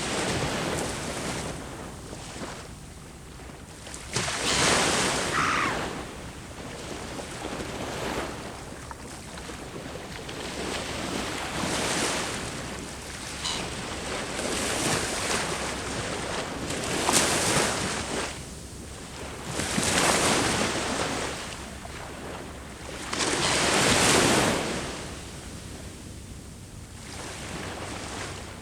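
Ocean waves breaking on a shore: a steady wash of surf that swells into louder breakers every few seconds.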